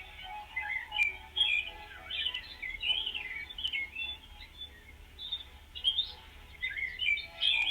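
A songbird singing a rapid, continuous warbling song of quick twisting chirps, with a short lull about two-thirds of the way through.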